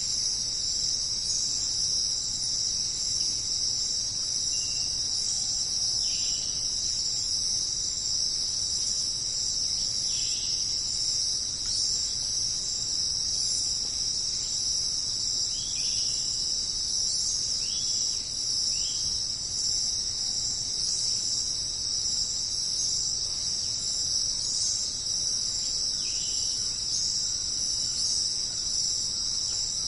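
Steady high-pitched chorus of jungle insects such as crickets or cicadas, with a few short falling chirps from another animal scattered through it.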